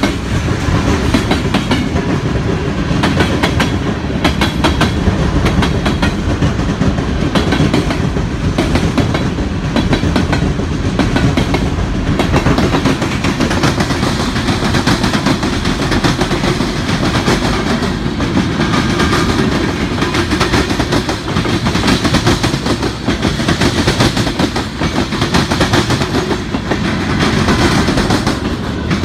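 Freight cars rolling past at close range: a steady rumble of steel wheels on rail with frequent sharp clacks from the wheels.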